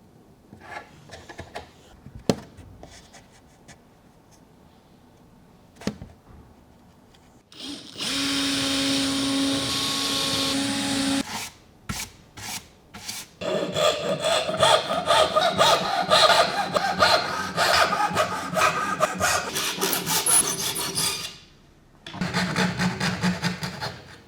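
Woodworking tool sounds on cedar. A few light clicks, then about three seconds of steady whirring with a held pitch, a few short bursts, and a long run of rapid rasping strokes like sawing or sanding, ending in one more short burst.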